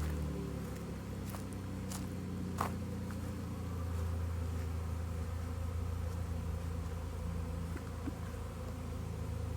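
Honeybee swarm buzzing: a steady, dense hum of many bees in flight around the microphone, with a couple of sharp clicks a few seconds in.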